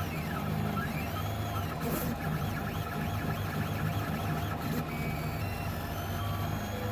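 Voron Trident 3D printer running, its stepper motors whining in short rising and falling tones as the axes speed up and slow down, over a steady low hum.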